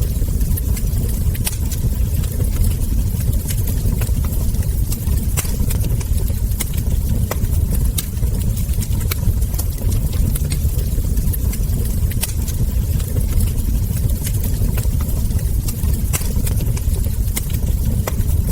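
Wood fire crackling, with frequent small sharp pops at irregular intervals over a steady low rumble of burning.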